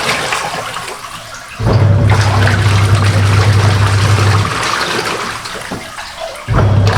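Samsung semi-automatic top-loader's wash motor humming as its pulsator churns water in the tub, stopping and restarting in a regular on-off pattern: it pauses near the start, runs for about three seconds, pauses again, and starts up once more near the end. The splashing water carries on through the pauses.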